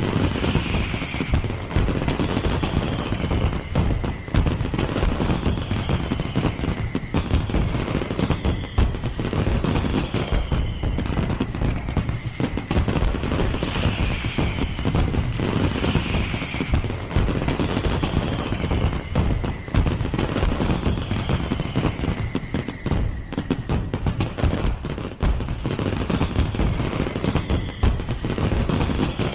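Fireworks going off in a dense, continuous barrage of bangs and crackles. Over it a high falling whistle-like tone repeats about every two seconds.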